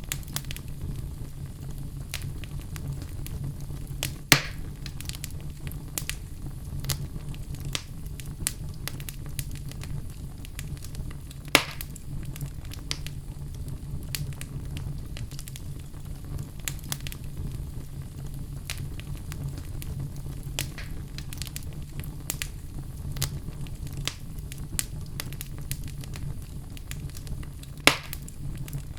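Fire crackling in a fireplace: a dense run of small irregular crackles over a steady low rumble, with three much louder sharp pops, one early on, one near the middle and one near the end.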